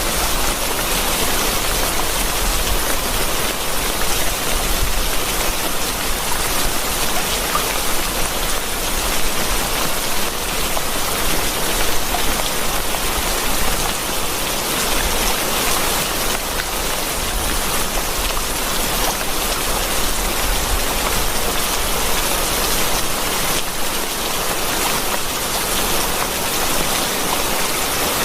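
Steady heavy rain, a dense even hiss of many drops falling on surfaces.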